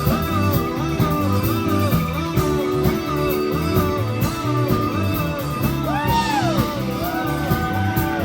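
Live rock band playing, with a melody of repeated bending notes over a steady low part and beat; about six seconds in, a higher note swells up and falls away.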